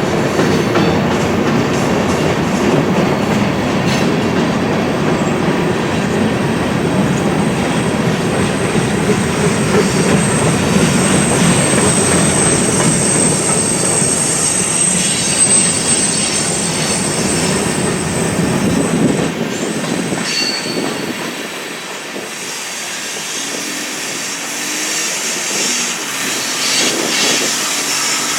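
A BNSF train rolling past on the rails, with a thin high wheel squeal in the middle of the pass. Its low rumble drops away about twenty seconds in, leaving a fainter hiss.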